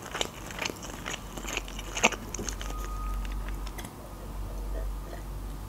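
Close-miked chewing of sushi rolls: soft wet mouth clicks and smacks, with one sharper click about two seconds in. Near the end comes a sip from a glass of juice.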